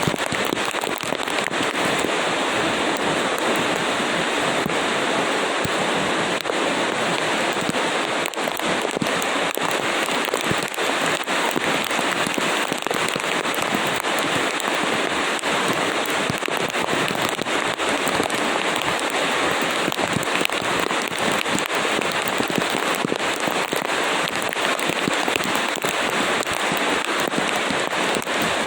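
Steady rain with a dense patter of drops crackling on a hard surface.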